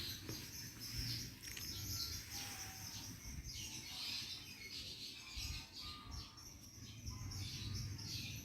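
Small birds chirping over and over in quick downward-sweeping calls, with a steady low rumble underneath.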